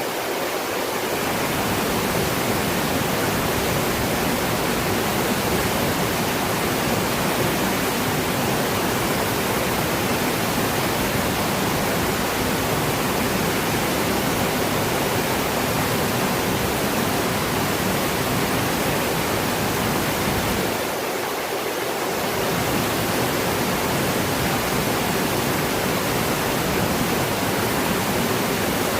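Water falling and rushing in a steady, dense roar of spray, briefly thinning in the low end about three-quarters of the way through.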